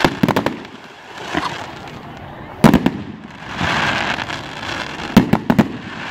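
Fireworks display: sharp bangs of bursting shells, several in quick succession at the start, the loudest pair a little under three seconds in and three more about five seconds in, with hissing crackle between the bangs.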